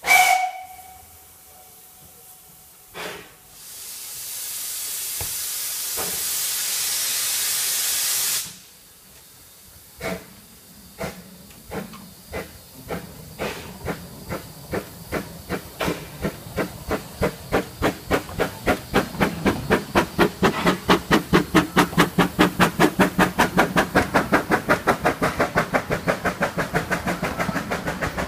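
Narrow-gauge steam locomotive sounds a short whistle, then lets off a loud steady hiss of steam for about five seconds. It then starts away with slow exhaust chuffs that quicken steadily as it gathers speed.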